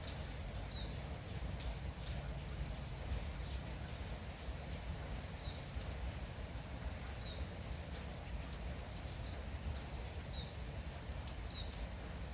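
Steady light drizzle with a small bird giving short, high chirps every second or two, and a few sharp ticks.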